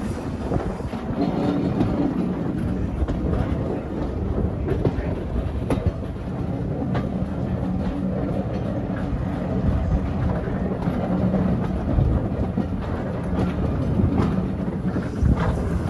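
Train running along the line: a steady rumble of wheels on rails, with occasional sharp clicks as the wheels pass over rail joints.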